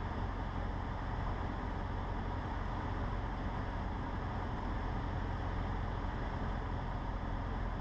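Cessna 150's Continental O-200 four-cylinder engine and propeller droning steadily at reduced power on final approach, heard inside the cockpit over a constant rush of wind and airframe noise.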